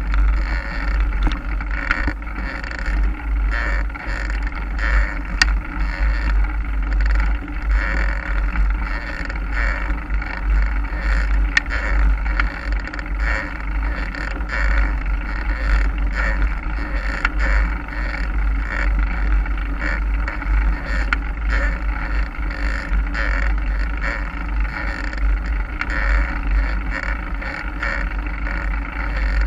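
Mountain bike riding over a trail: a steady heavy rumble of wind on the microphone, with tyre noise and frequent short rattling clicks from the bike.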